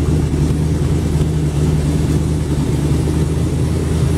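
Freshly rebuilt 426 Hemi V8 running steadily at a slightly raised idle, its exhaust going through homemade dual glasspack mufflers straight off the manifolds.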